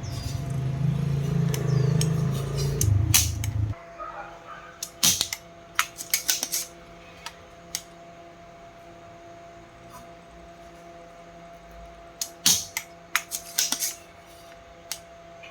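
A loud low buzzing hum that cuts off abruptly about four seconds in, followed by scattered light clicks and clinks of small hard objects being handled over a faint steady hum.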